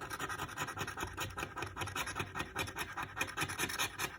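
A scratch-off lottery ticket being scratched, quick repeated scraping strokes rubbing off the ticket's coating, several strokes a second.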